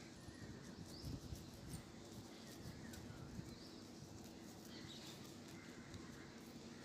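Faint, scattered tiny clicks of lice nits being cracked between fingernails in the hair, many in quick succession, with a few soft thumps about a second in.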